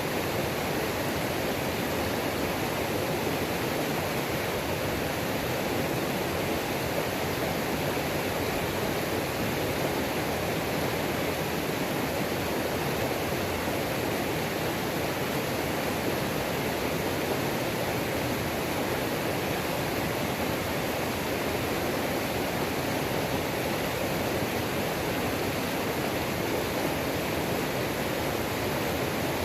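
Water of a mountain creek pouring over a waterfall: a steady, unbroken rushing.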